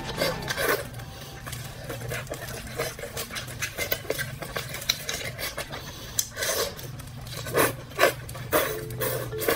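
Close-up wet chewing and lip-smacking of a person eating braised octopus tentacles, irregular sticky smacks and clicks, the loudest ones near the end.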